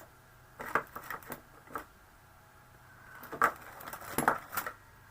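Scissors snipping card stock: a few quick snips about a second in, then a louder cluster of snips and clicks between about three and four and a half seconds.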